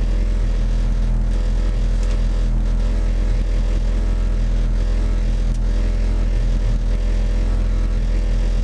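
Renault Mégane group N rally car's engine idling at a steady, unchanging pitch while the car waits, heard from inside the stripped cabin.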